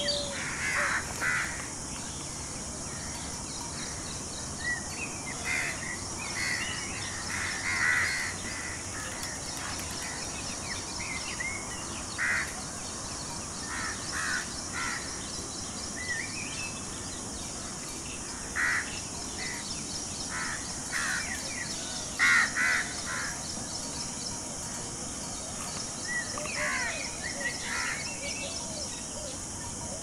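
Birds calling in forest: short harsh calls in bursts of two or three, every second or two, over a steady high hiss.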